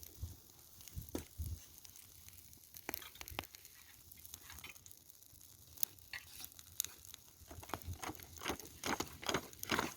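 Bonfire of dry garden debris crackling, with scattered sharp pops and snaps that come thicker near the end.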